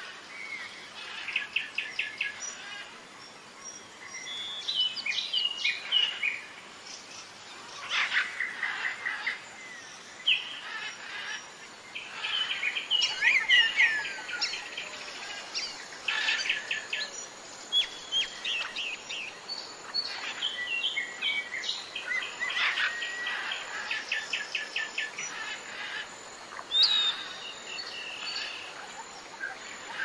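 Several birds calling at once: quick chirps, rapid trills of repeated notes and short sweeping whistles, over a faint steady hiss.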